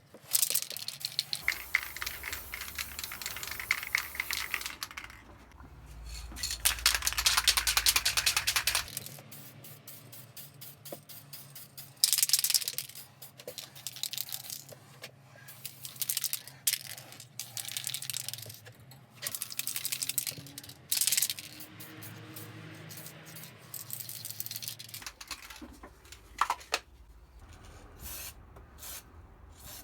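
Aerosol can of spray primer being shaken, its mixing ball rattling in uneven bursts.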